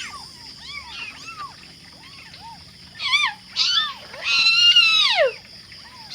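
Several kittens meowing over one another in short rising-and-falling mews, with one long, loud meow about four seconds in that drops in pitch at its end. These are hungry kittens crying for their mother.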